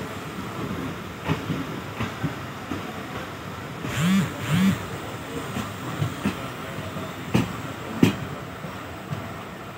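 Loaded container flat wagons of a freight train rolling past with a steady rumble of wheels on rail, broken by irregular sharp knocks and clatter as the wheels cross rail joints. The loudest knock comes about eight seconds in. Two short rising-and-falling calls sound about four seconds in.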